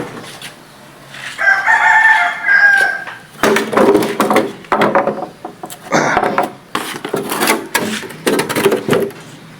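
Rooster crowing: one long call about a second and a half in, followed by several seconds of short, sharp sounds.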